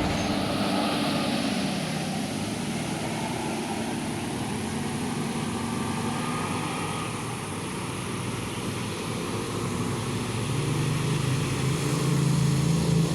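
A motor vehicle's engine running with road noise, its low engine note growing louder from about ten seconds in.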